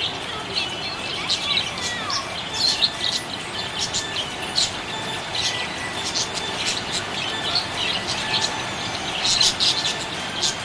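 Budgerigars chirping: many short, high chirps and tweets in quick, irregular succession, over a steady background hiss.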